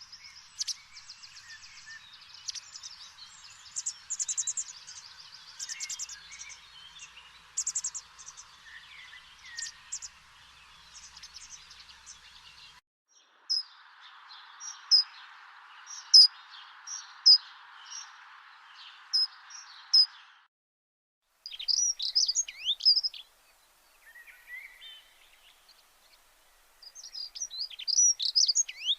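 Small birds chirping and twittering in many short, high calls, growing busier near the end, over a faint hiss that cuts off abruptly a few times.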